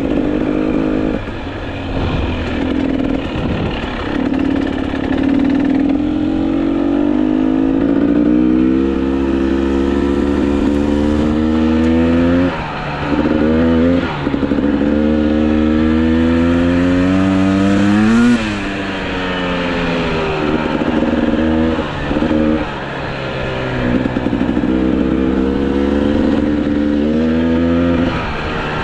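GasGas EC300 two-stroke dirt bike engine under way, its pitch climbing steadily as it accelerates. It is cut back briefly a couple of times about 12 and 14 seconds in, peaks sharply about 18 seconds in, then drops and climbs again.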